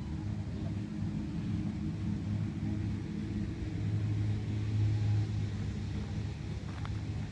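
A low, steady engine rumble that swells around the middle and eases again.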